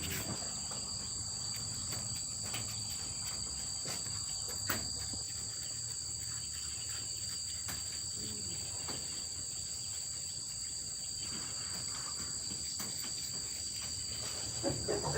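Crickets chirring steadily at a high pitch, with a few faint clicks and knocks.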